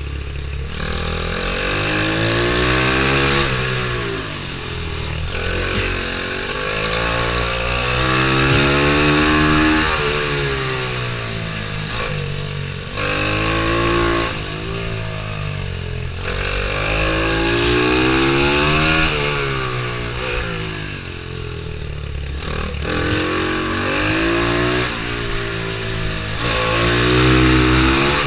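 Pitbike's small single-cylinder engine revving hard and dropping back about six times over, each time pitch climbing as it accelerates out of a corner and falling as the throttle closes for the next, the sound of laps around a tight kart circuit.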